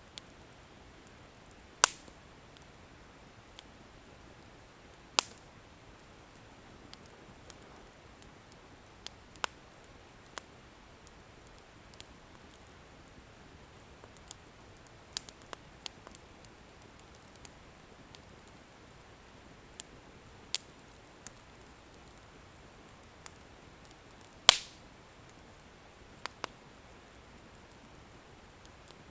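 Firewood in a bonfire crackling, with sparse, sharp pops over a faint steady hiss. The loudest pops come about two seconds in, about five seconds in, and once more late on.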